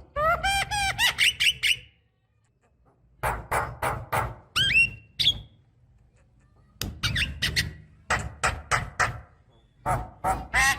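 Javan myna singing in three bursts of rapid, sharp clicks and harsh chips mixed with rising whistled notes, with pauses of about a second between bursts.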